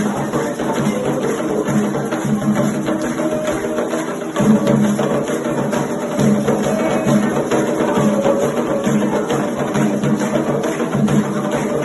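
Candomblé ritual music: a steady groove of drums and a struck wooden-sounding percussion instrument, dipping briefly about four seconds in.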